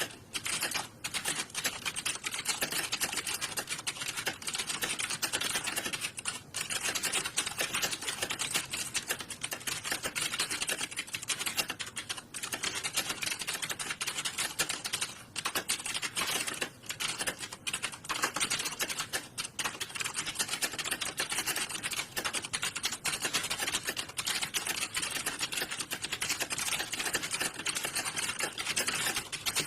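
Computer keyboard typing, a dense and continuous clatter of keystrokes with a few brief pauses.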